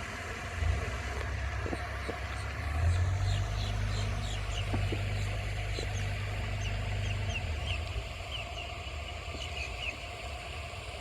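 Steady hiss of a lake fountain's spray with small birds chirping in short high notes, over a low rumble that swells about a second in and fades after several seconds.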